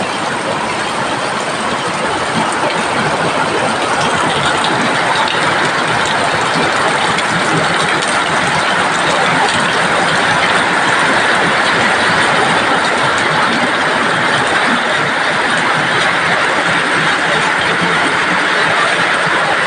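Heavy rain pouring down, a loud, steady, even downpour that swells a little over the first few seconds.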